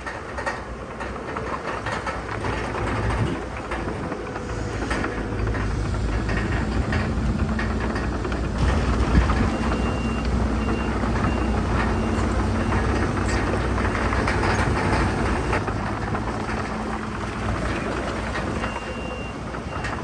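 Heavy diesel earthmoving machinery running under load, with continual rattling and clanking. A back-up alarm beeps steadily for a few seconds about halfway through, and briefly again near the end.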